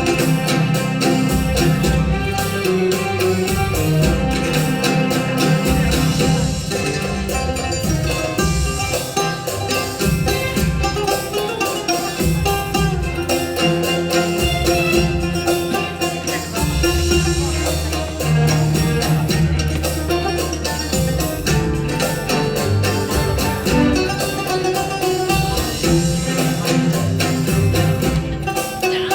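Live instrumental music in a Mesopotamian folk style: quick plucked-string notes with hand percussion over held low notes, running steadily.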